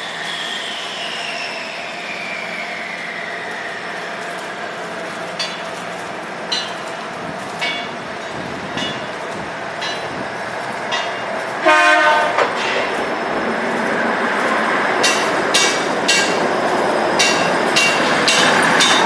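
Commuter diesel multiple unit coming slowly into a station platform: a falling whine over the first few seconds, with wheels clicking over the rail joints. A short horn blast sounds about twelve seconds in. Then the engine and wheel noise grows louder as the cars pass close.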